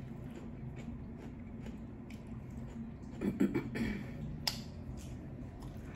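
Close-miked chewing of a hard-shell taco: small wet mouth clicks and crunches, with a louder moment and a sharp click around three to four and a half seconds in. A steady low hum runs underneath.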